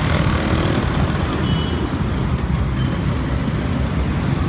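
A motor vehicle's engine running steadily close by, a continuous low rumble.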